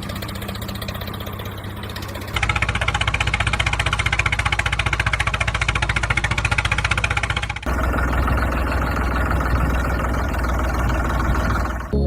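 Small electric motors of a homemade mini JCB running with a steady whirring hum, jumping abruptly to a louder, fast-rattling run about two and a half seconds in and changing character again about seven and a half seconds in.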